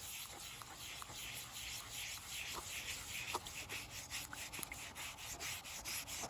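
Scratch pad scrubbing a vinegar-soaked rusty steel axe head, a faint scratching in quick repeated strokes, a few a second.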